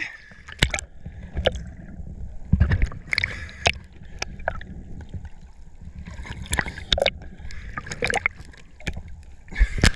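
Rough ocean water splashing around a swimmer: irregular sharp splashes over a low rumble of surf and wind.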